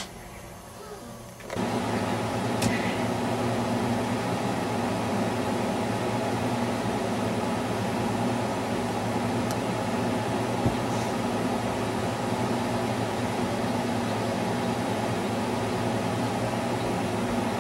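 A steady mechanical whir with a low hum starts suddenly about a second and a half in and runs on evenly.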